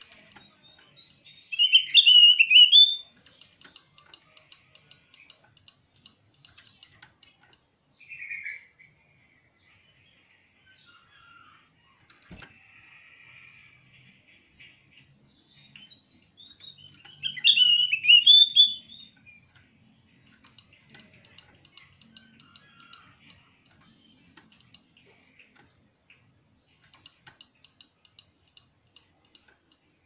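Javan grey-throated white-eye (opior jawa) calling to a rival: two loud bursts of song about a second and a half long, one near the start and one about halfway through. Between them come a shorter call at about eight seconds and soft scattered chips. A single sharp click comes at about twelve seconds.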